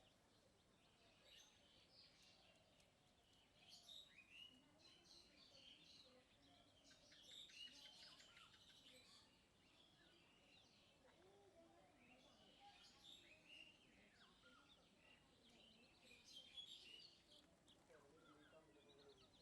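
Faint, busy chirping and twittering of small birds, many short calls overlapping throughout.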